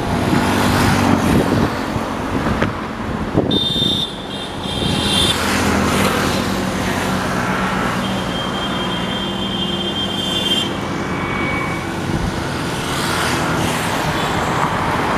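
Steady road traffic: vehicle engines running and tyres on the road, with a vehicle horn sounding about three and a half seconds in.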